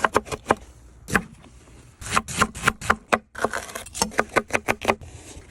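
Knife chopping vegetables, quick irregular strokes of several a second with a brief pause about three seconds in.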